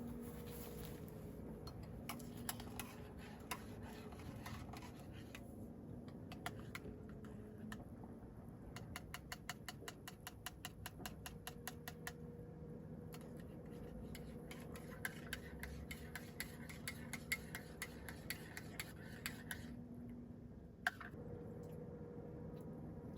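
Runs of quick, light clicks and taps, several a second, with one louder click near the end, over a low steady hum.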